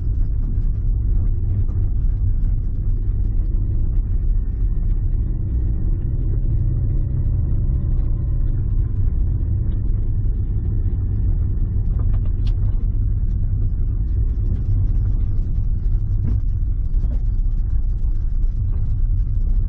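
A steady low rumble with faint clicks over it.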